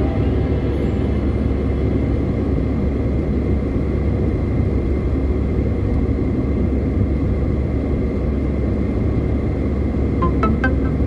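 Steady low rumble of a car driving at road speed, engine and tyre noise. A few short musical notes come in near the end.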